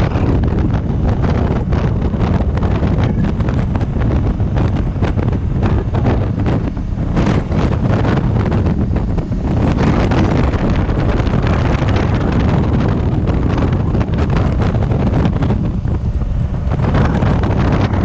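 Heavy, steady wind noise buffeting the microphone of a rider on a moving motorcycle.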